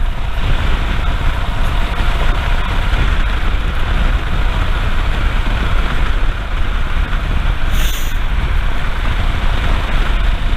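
Royal Enfield Himalayan's single-cylinder engine running while riding along, under heavy wind rush on the microphone. A short hiss about eight seconds in.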